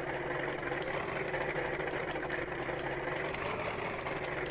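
Corvette engine idling steadily, with faint sharp ticks now and then.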